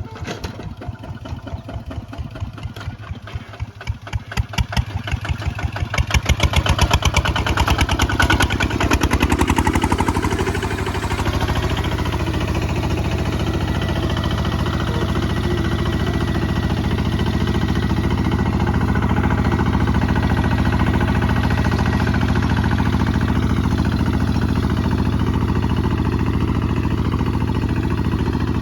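Kubota ZT155 single-cylinder diesel engine chugging with separate, slow firing beats that speed up over the first nine or ten seconds, then running steadily at higher revs.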